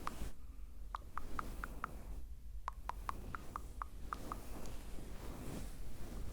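Close-miked ASMR mouth sounds: two quick runs of soft wet clicks, about six a second, over a faint rustle of the pop filter being stroked.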